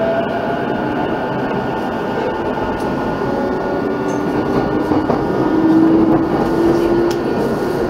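Saikyō Line electric commuter train heard from inside the car as it pulls away from a station: steady rolling noise from the wheels and running gear, with a motor whine that rises slightly in pitch and gets a little louder in the second half as the train gains speed.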